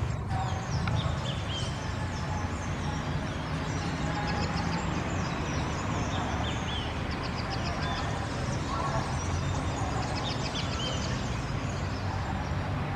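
Birds calling outdoors: many short, high chirps and little falling notes, scattered and overlapping, over a steady low rumble.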